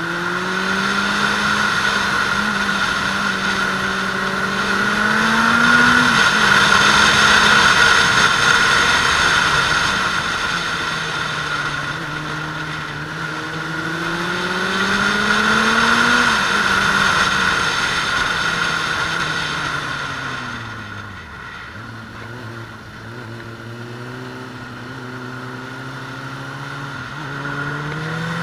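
Suzuki Bandit 600S inline-four engine at full riding speed, the revs climbing and dropping back twice as it shifts up, then falling away sharply about 20 seconds in as the bike slows, running low and starting to climb again near the end. Wind rushes steadily over the helmet camera underneath.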